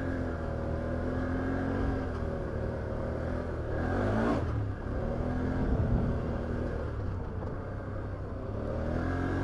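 Can-Am Outlander 850 XT ATV's V-twin engine running, its pitch rising and falling as the throttle is worked, with a brief rush of noise about four seconds in.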